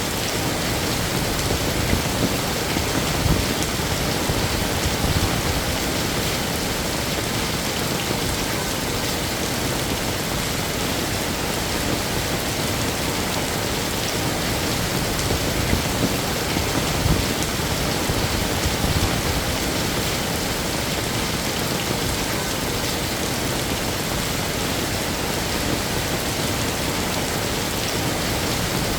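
Steady heavy rain falling on hard surfaces, a dense even hiss with small irregular surges in the low end.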